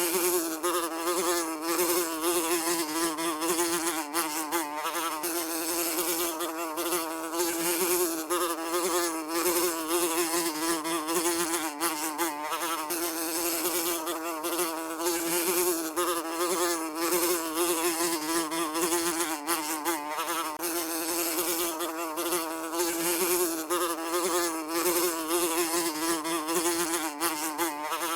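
A fly buzzing steadily without pause, its drone wavering slightly in pitch, with a crackly hiss above it.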